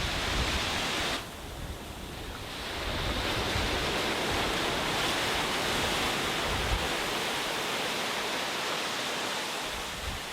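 Sea waves washing onto a beach, with wind buffeting the microphone. About a second in the surf falls away, then the next wave builds and runs on steadily before easing near the end.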